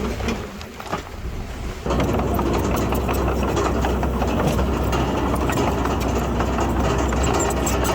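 Heavy diesel earthmoving machine running steadily, with rattling and clanking on top. It is quieter for the first two seconds, then loud all at once.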